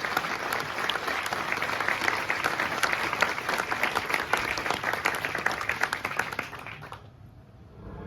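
Concert audience applauding, a dense patter of many hands clapping that dies away about six seconds in.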